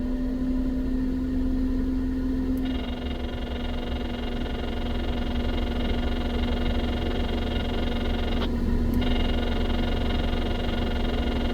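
A motor running steadily with a constant humming tone over a low rumble. Its higher tones fall away briefly twice, near the start and again about two-thirds of the way through.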